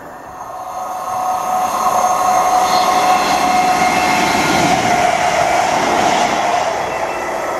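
Greater Anglia electric multiple unit passing through at speed: a rush of wheels on rail that swells over the first couple of seconds, stays loud through the middle and eases near the end, with a steady high whine on top.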